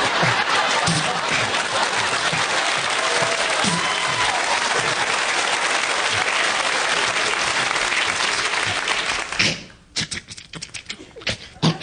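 Studio audience applauding and cheering loudly, with a few whoops heard over the clapping; it cuts off suddenly about nine and a half seconds in, leaving a few scattered claps and knocks.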